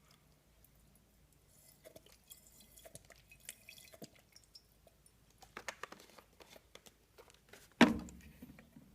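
Jars being handled while a smaller jar is readied for a fuel-fume ignition test: scattered small clicks, taps and crinkles, a quick run of ticks, then one loud knock about eight seconds in.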